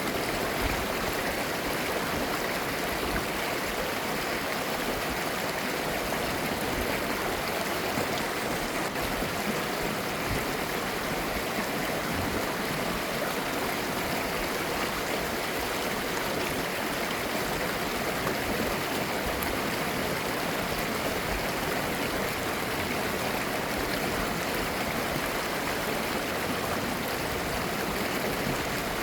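Mountain valley stream flowing steadily over rocks: a continuous, even rush of water with light babbling.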